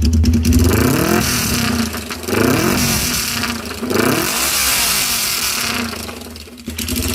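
Suzuki GSX400E motorcycle with a bosozoku-style exhaust being revved in a rhythmic series of throttle blips, a bosozoku 'call': the engine pitch rises and falls several times, then drops back briefly near the end before picking up again.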